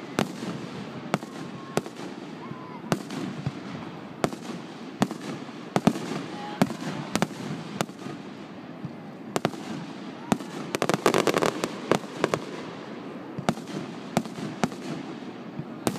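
Fireworks display: sharp bangs of shells bursting at irregular intervals, with a rapid run of crackling pops about eleven seconds in.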